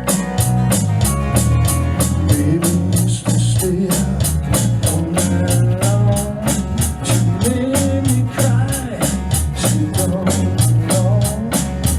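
Small band playing an instrumental groove: drum kit with steady cymbal or hi-hat strikes about four a second over a bass line. About four seconds in, a lead melody with bends and vibrato comes in.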